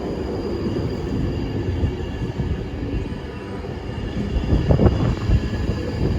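Train running through the station: a steady low rumble of wheels on rail with faint high steady tones above it, and a louder cluster of knocks about five seconds in.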